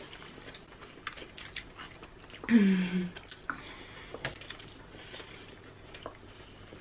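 Mouth sounds of people chewing food fast, with small scattered clicks and rustles from handling the food and its plastic tray, and one short muffled hum from a full mouth about two and a half seconds in.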